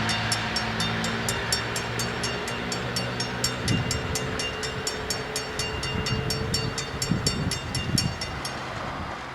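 Dutch level-crossing bells ringing in a rapid, even series of strokes, about four a second, over the low rumble of a train on the line. The bells stop near the end, and the train sound fades.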